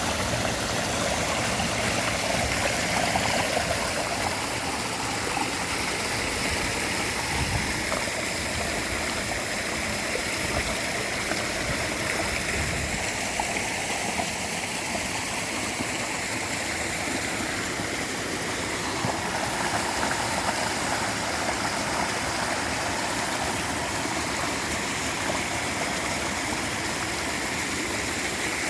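A clear stream flowing steadily, with water running and gurgling.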